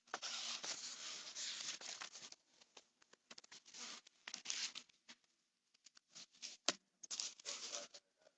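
Rustling and scraping in irregular bursts, like paper or clothing being handled, with a sharp click about two-thirds of the way through.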